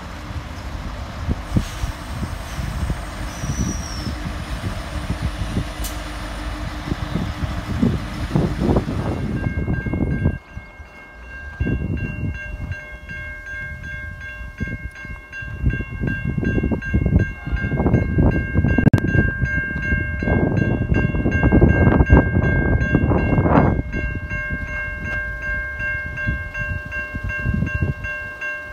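V/Line Sprinter diesel railcar rumbling in to a station platform. Then a railway level crossing's warning bells start ringing steadily, with gusts of wind on the microphone.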